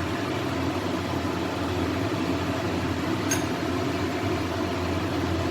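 Steady low mechanical hum with a faint hiss over it, and a single light click about three seconds in.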